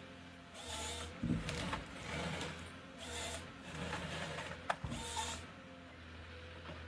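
Timber harvester at work: its engine runs steadily under a series of short hissing bursts, with a thump just over a second in and a sharp knock about five seconds in.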